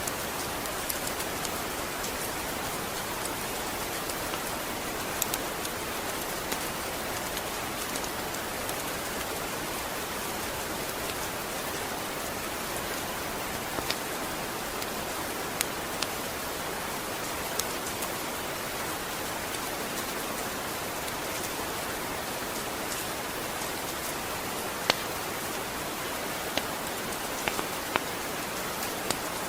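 Steady rain falling, an even hiss with scattered sharper drop ticks on a nearby surface.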